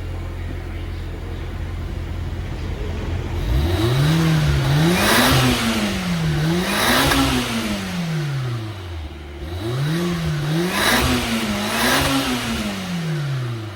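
Mitsubishi Pajero Mini H58A twin-cam engine through a Rallyart rear muffler, idling and then revved four times in two pairs, dropping back toward idle between the pairs and at the end. A rushing hiss comes up at each rev peak.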